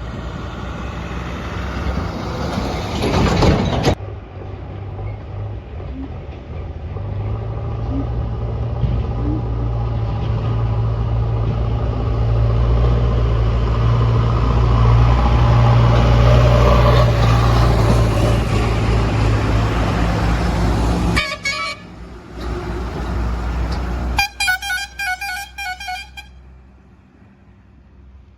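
Heavy diesel engine of a backhoe or tipper truck running under load, its drone building steadily before cutting off suddenly about three-quarters of the way through. A vehicle horn then sounds as a rapid run of repeated beeps.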